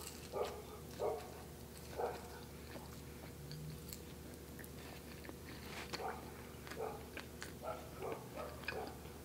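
Close-up biting and chewing of a soft chocolate peanut butter cronut, with dogs barking off and on in the background, a few barks early and more from about six seconds in.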